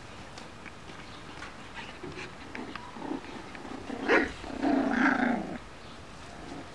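Five-week-old F1b cockapoo puppies playing, with small short noises at first, then a louder puppy growl about four seconds in that lasts about a second and a half and stops suddenly.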